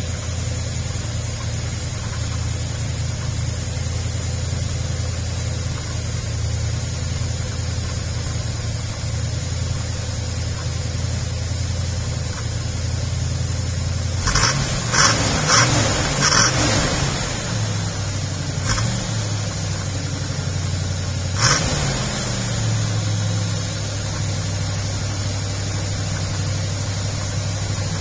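Chevelle SS 396 big-block V8 idling steadily on a cold start. About halfway through the note breaks up for several seconds with a few sharp cracks, then settles back into a steady idle.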